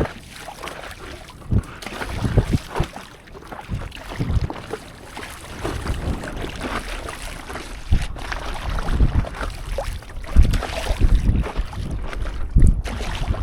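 Sea water splashing and slapping against a stand-up paddleboard in irregular bursts, with wind buffeting the microphone.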